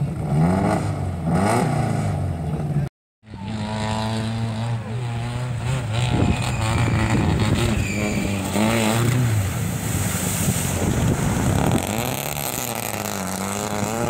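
Rally car engines revving hard, rising and falling in pitch. The sound drops out briefly about three seconds in, then a second car's engine holds high revs with surges as it spins its wheels on wet gravel.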